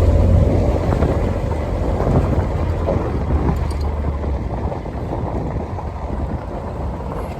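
ATV engine running under way, with wind buffeting the microphone; it eases off a little in the second half.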